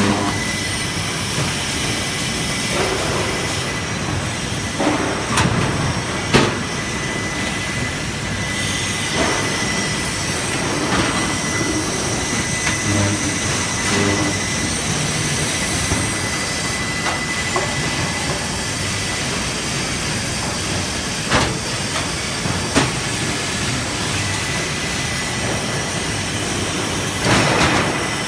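Automated resistance seam welding machine for fuel tanks running: a steady rolling mechanical rumble with a thin high tone through much of it, broken by occasional sharp knocks and clanks. A louder rushing burst comes near the end.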